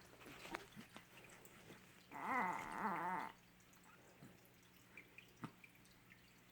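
A two-month-old baby vocalising: one wavering, pitch-bending coo of about a second, starting about two seconds in, with a few faint clicks around it.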